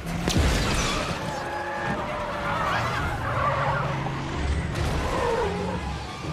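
Film sound effects of a vehicle skidding, its tyres screeching with a wavering pitch.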